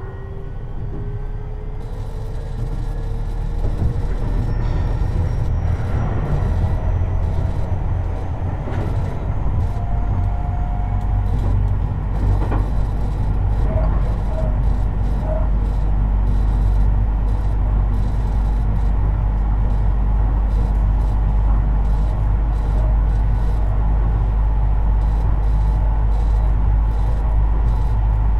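Tobu 50090 series electric train accelerating: traction-motor whine climbing in pitch over the first ten seconds or so, over a rumble of wheels on rail that grows louder, then running steadily at speed.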